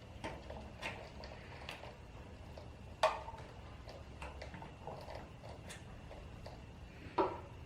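Scattered metallic clicks and knocks of pliers and brake parts being handled while the front brake is taken off, with a sharp click about three seconds in and a ringing metal clank near the end.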